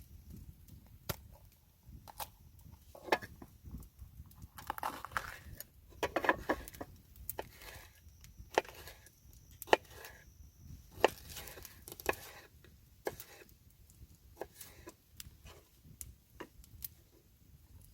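Scattered, irregular knocks and clicks with a few short rustling stretches: handling noises of camp cooking preparation.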